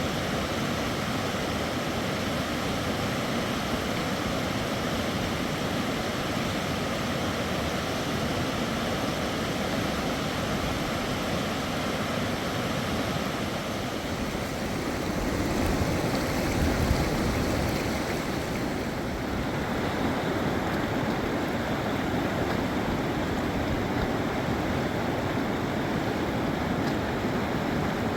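Steady rush of flowing river water. It swells a little louder about sixteen seconds in, then turns duller a few seconds later.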